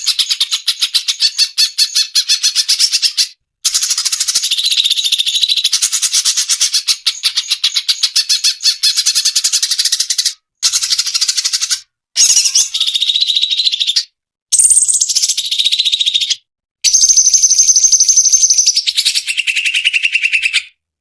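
Cucak cungkok songbird singing: loud, rapid chattering and trilling phrases a few seconds long, broken by short sudden gaps, ending on held high trills that drop lower before it stops near the end.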